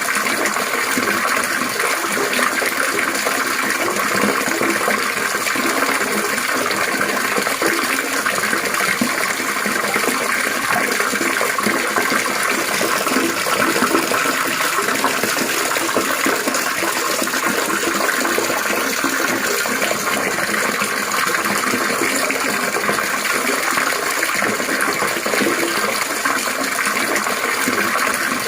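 Trickling, splashing water running steadily and without a break.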